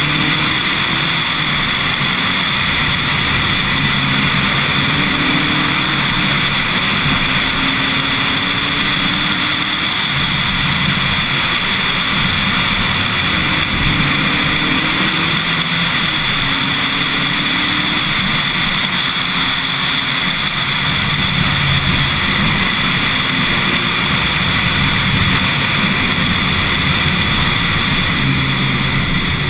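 Lotus Elise S1 111S's 1.8-litre Rover K-series VVC engine pulling hard up a mountain road, its revs climbing and falling back again and again through gear changes, under a heavy steady rush of wind and road noise.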